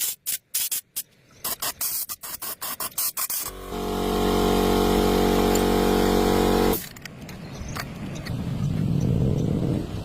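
A quick run of sharp clicks, then a small motor runs with a steady buzz for about three seconds and cuts off abruptly, followed by rougher scraping noise.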